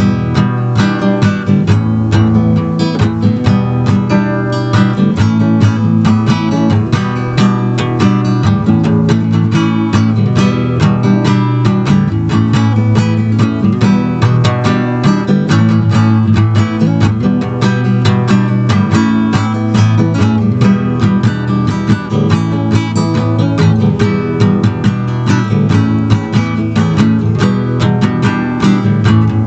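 Music: a strummed acoustic guitar playing an instrumental passage with a steady rhythm.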